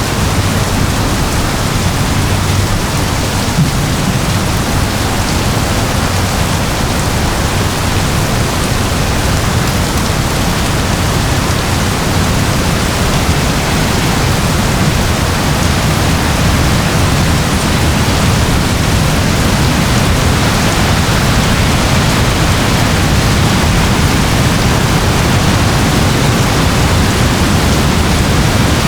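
Steady rain: an even, continuous hiss with a low rumble underneath and no single drops or thunderclaps standing out.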